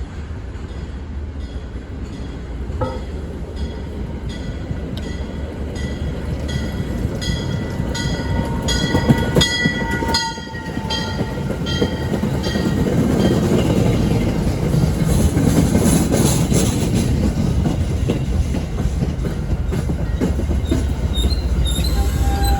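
Train rolling past, wheels clicking over rail joints in a steady rhythm under a continuous rumble, with a thin high wheel squeal for a few seconds near the middle; the rumble grows louder in the second half.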